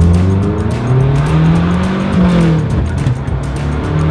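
Lancia Delta Integrale rally car's turbocharged four-cylinder engine pulling under acceleration: the revs climb, drop briefly about two seconds in, then climb again.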